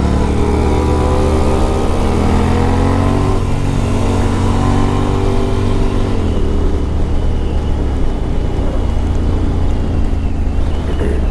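Honda CTX700 motorcycle engine running under way, its note climbing slightly at first, then stepping down sharply about six seconds in and running steadily after that.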